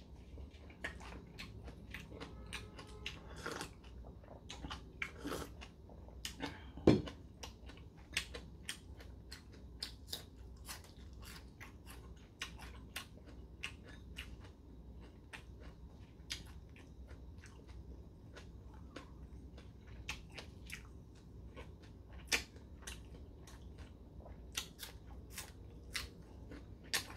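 A person chewing food, with many small wet clicks and smacks of the mouth and a louder knock about seven seconds in.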